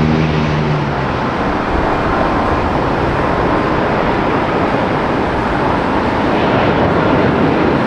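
Jet airliner engine noise: a loud, steady rushing sound, with a low hum that fades out in the first second.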